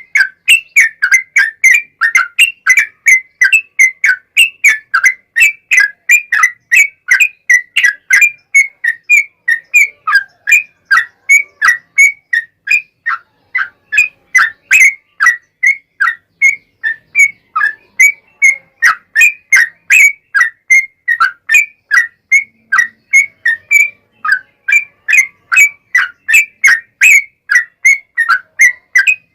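Yellow-vented bulbul (trucukan) singing a long, unbroken run of short high notes, about three a second. It is a lure recording played to get a caged bulbul to sing in answer.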